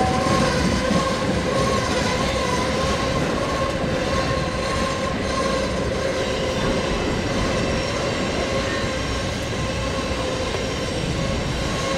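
Norfolk Southern mixed freight train rolling past steadily, its wheels making a constant squealing tone over the continuous rumble of the cars.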